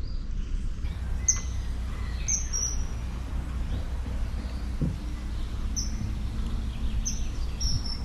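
Birds chirping in short, high calls, about six times over the few seconds, against a steady low outdoor rumble.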